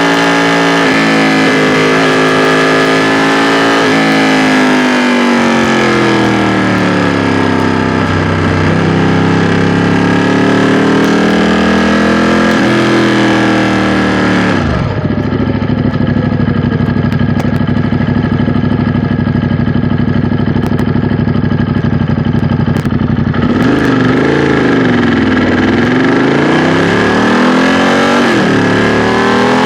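2016 Ducati XDiavel S's 1262 cc L-twin engine and exhaust, heard from the rider's seat, rising and falling in revs through the gears with wind rushing past. About halfway through the revs drop suddenly and the engine idles steadily for about eight seconds with the wind noise gone, then it revs up and pulls away again.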